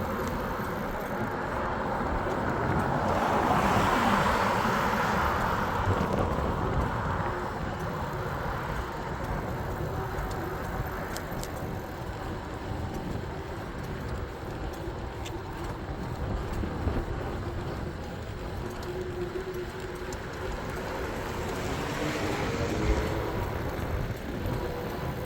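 Road noise heard while riding an e-bike: a steady low rumble, with traffic swelling louder about four seconds in and again near the end.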